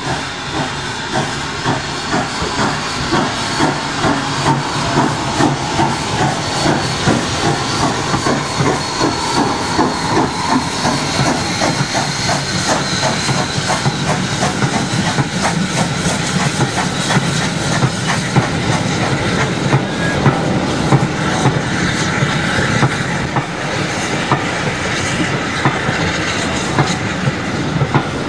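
Steam locomotive working: a steady hiss of steam with a run of rhythmic exhaust beats.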